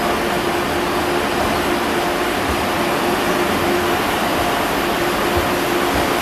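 Renfe AVE high-speed electric train moving slowly along the platform, a steady running noise with a humming tone that comes and goes.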